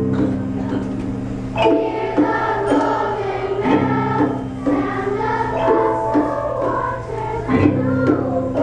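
Children's choir singing with instrumental accompaniment: long held low notes that change every couple of seconds under the voices.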